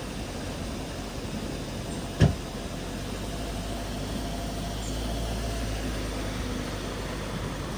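A motor vehicle's engine running steadily, with a single sharp knock about two seconds in.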